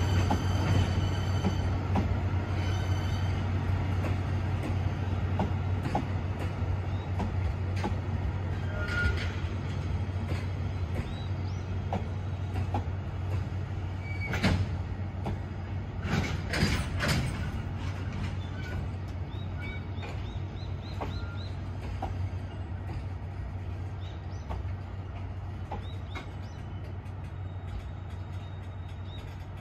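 Container freight train of Koki flatcars rolling slowly past: a steady rumble of wheels on the rails, with short wheel squeals and clanks clustered about halfway through. The sound grows steadily quieter as the train slows on arrival.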